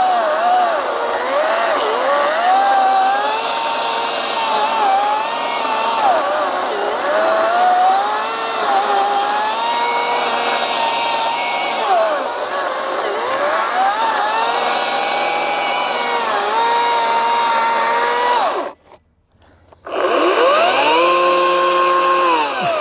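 Ryobi 40V brushless battery chainsaw cutting into a stump, its electric motor whine sagging and recovering in pitch over and over as the chain loads up in the wood. Near the end it stops for about a second, then spins up again, runs free at a steady pitch and winds down.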